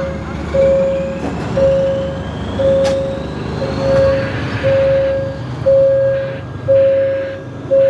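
A train rumbling past while a warning signal beeps steadily, each beep about half a second long, about once a second, as at a railway level crossing.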